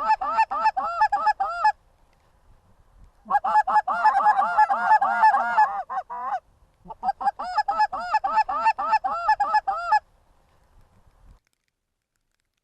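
Canada goose honks in three rapid runs of evenly repeated calls, each a few seconds long with short gaps between, ending about ten seconds in.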